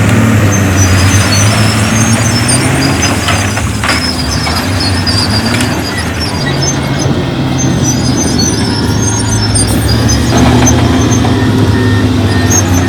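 Heavy diesel engine of earthmoving machinery running and revving up several times, with a few clanks about three to four seconds in and high intermittent squeaks.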